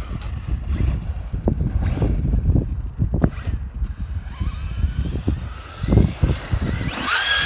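Traxxas Hoss 4x4 VXL RC monster truck running over rough ground, with a low rumble of wind on the microphone and several knocks, then a brief high whine of its brushless motor revving near the end.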